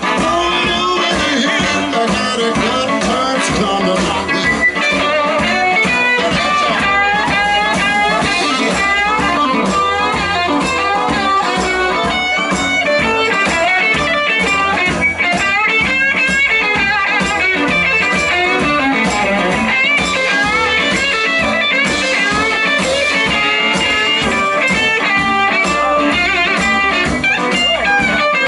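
Live blues band playing an instrumental passage, with guitar to the fore over a steady drum beat.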